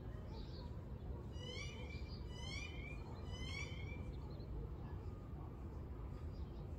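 A bird calls three times, each a short rising note a little under a second apart, over a steady low background rumble.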